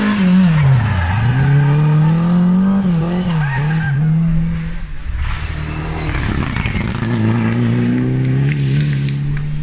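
Rally car engine at racing revs: the pitch drops sharply about a second in as it brakes and downshifts, then rises and dips through gear changes. Near the middle it gives way to a rougher stretch, and then the engine climbs steadily again as it accelerates away.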